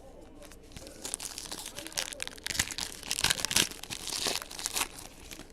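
Trading-card pack wrapper crinkling and tearing as it is ripped open by hand, a dense run of crackling for about four seconds.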